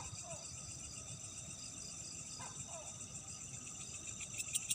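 A night insect chorus of crickets trilling steadily at a high pitch. A short, falling two-note call from another night animal comes in twice, about two and a half seconds apart.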